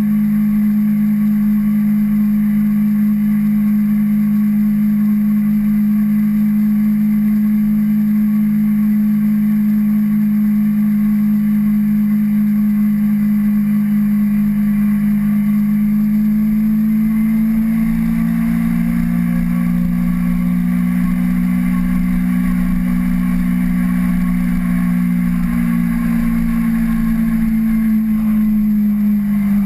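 Kawasaki Ninja 250R's parallel-twin engine running at a steady cruise, one even drone whose pitch rises a little about two-thirds of the way in and eases back near the end.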